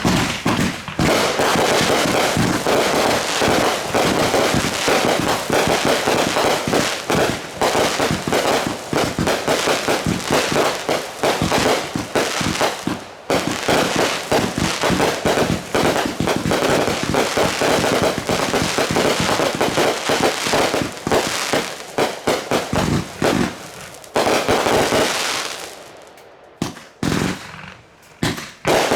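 Fireworks going off in a dense, rapid barrage of bangs and crackles, thinning to a few separate bangs in the last few seconds.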